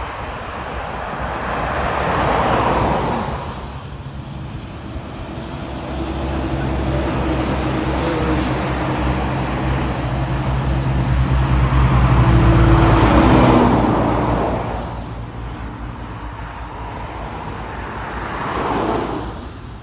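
Trucks passing on a road, one after another. One goes by about two seconds in. A heavier one with a low engine hum builds up and passes loudest about two-thirds of the way through, and another passes near the end.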